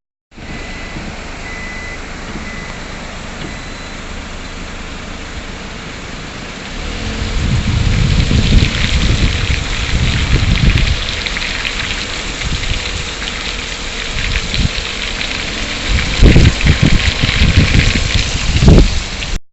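Steady rushing noise of water, growing louder about seven seconds in, with irregular low gusts of wind buffeting the microphone.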